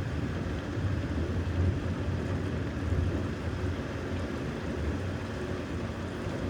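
Thunderstorm: a low, rolling rumble of thunder over a steady hiss of rain and wind.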